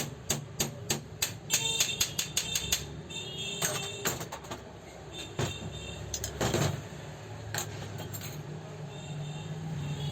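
Irregular metallic clicks and taps from parts and tools being handled on an old overlock sewing machine under repair, thick in the first few seconds and then sparser, over faint background music.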